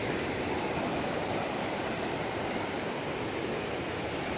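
Ocean surf: a steady wash of waves breaking and rushing up the shore.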